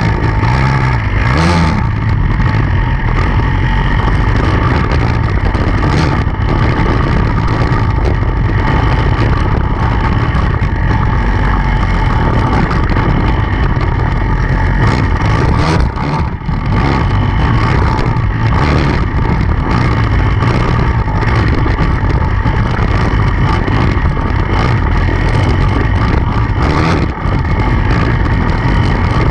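Off-road motorcycle engine running hard, loud and continuous, with the throttle eased briefly twice.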